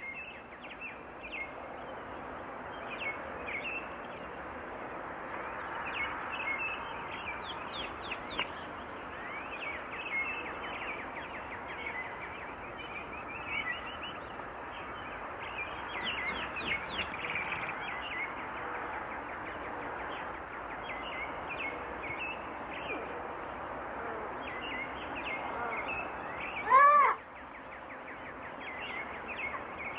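Many birds chirping and calling over a steady hiss of forest ambience. Near the end, one short call stands out, much louder than the rest.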